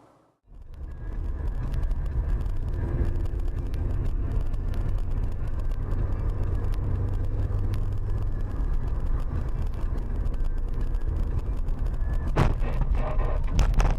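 Steady low road and engine rumble of a moving car, with a sharp bang about twelve seconds in followed by a few knocks and rattles.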